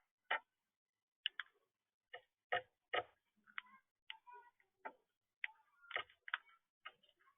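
Parrots making short, soft chirps and clicks, about a dozen scattered irregularly with gaps of silence between.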